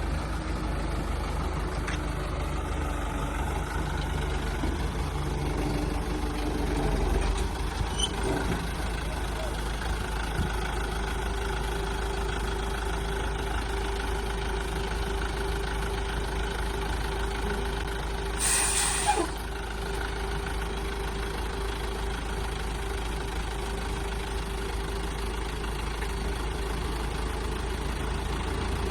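A large engine or machine running steadily with a low drone. A short burst of hissing, like air being released, comes about two-thirds of the way through.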